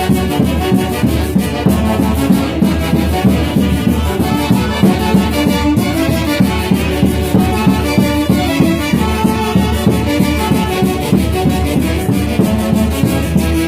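Band music from Huancayo: wind instruments playing a melody over a steady, even beat.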